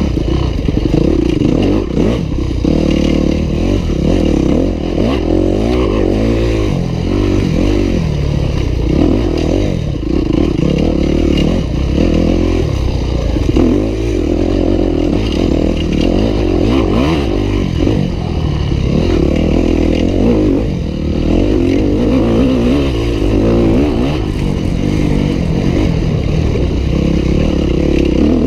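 Yamaha YZ250F dirt bike's single-cylinder four-stroke engine ridden hard, its note climbing and dropping again and again as the throttle is opened and closed.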